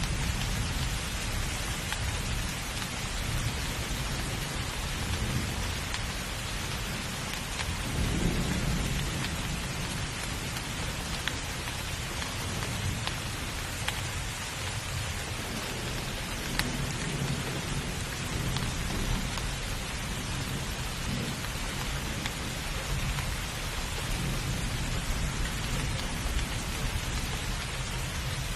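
Steady heavy rain hissing, with low rolling thunder rumbling underneath in swells, the strongest about eight seconds in.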